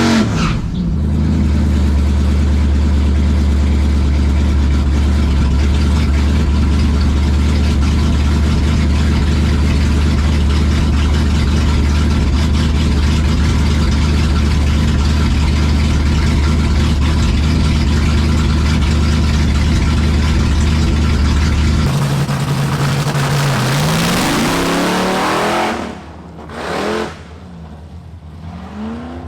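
Engine of a Hemi-powered Plymouth Belvedere drag car running loud at a steady speed for about twenty seconds. It then changes note and revs up and down, getting quieter for the last few seconds.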